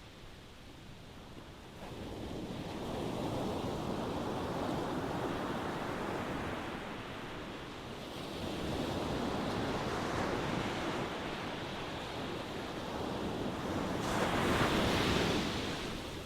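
Ocean waves breaking and washing on a shore, a steady rush of surf that swells and ebbs in slow surges, the biggest wave near the end.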